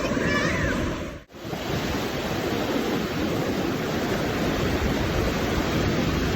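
Sea surf washing onto the beach: a steady rush of noise that briefly drops out just over a second in, then carries on.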